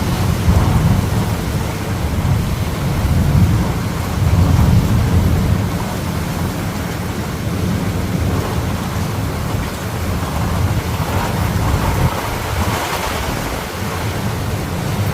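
Thunder rumbling almost without a break, loudest in the first half, over a steady hiss of rain.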